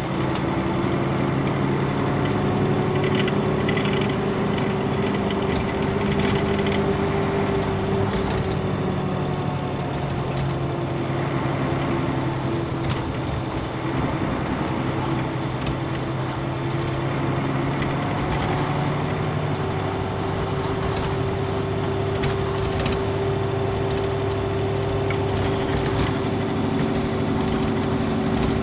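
Nissan Diesel UA bus's PF6HTA diesel engine running under way. Its pitch rises and falls with engine speed, resetting about a third and two thirds of the way through, with scattered light rattles.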